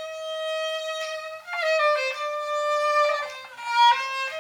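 Solo melody played on a single instrument in long held notes that step and glide from one pitch to the next, with a louder swell near the end.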